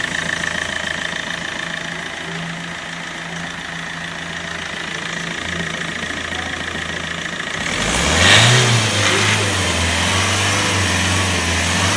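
Car engine idling steadily, then revved about eight seconds in: the pitch rises sharply with a rush of hiss, then settles into steady running at a higher speed.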